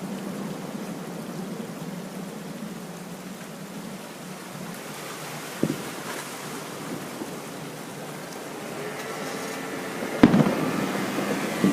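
Fireworks show: one aerial shell bursts with a single bang about halfway through, and a louder shell bursts near the end with a crackling tail, over a steady low rumble.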